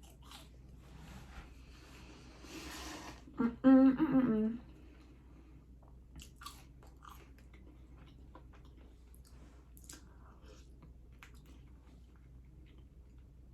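Close-miked chewing and biting of food, with small wet mouth clicks. About three and a half seconds in comes a short hummed voice sound, the loudest thing.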